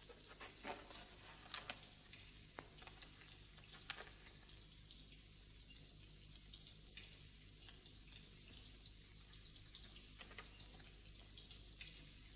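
Near silence: a faint steady hiss, with a few soft clicks in the first four seconds.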